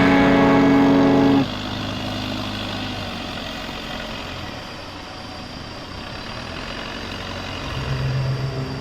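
A held musical chord cuts off about a second and a half in, leaving a steady background rush; near the end the low, steady hum of an engine comes in and grows louder.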